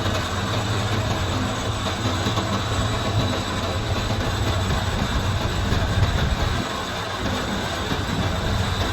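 Workshop machinery running steadily: a continuous low hum with dense mechanical rattling over it.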